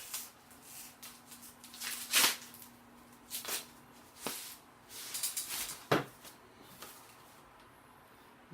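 Intermittent handling noises: rustling strokes and a few sharp light knocks or clicks, the clearest about two, four and six seconds in. Under them runs a faint steady hum that stops about six seconds in.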